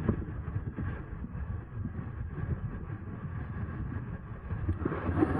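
Riding noise from a moving electric bike: an uneven low rumble of wind on the microphone and tyres on the road, with no clear motor whine.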